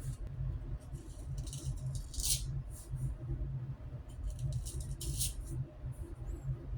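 Wet-shaving strokes against stubbled skin: short scratchy swipes, several of them a second or more apart, over a steady low hum.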